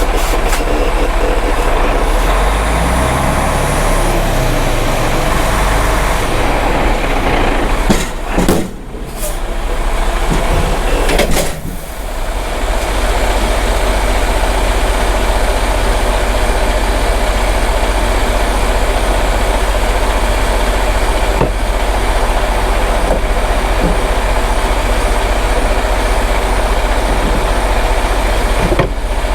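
Diesel semi-truck engine running steadily, with two brief drops in level about eight and eleven seconds in.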